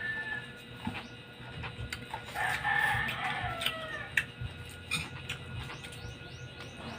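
A rooster crowing once, a call of about a second and a half that falls in pitch at the end, with scattered small clicks around it.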